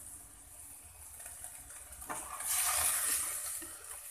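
Minced chicken breast sizzling faintly in a wok. About two seconds in, a wooden spatula starts stirring and scraping it, and the sizzle grows louder for a second or two. The meat is frying down and getting somewhat dry.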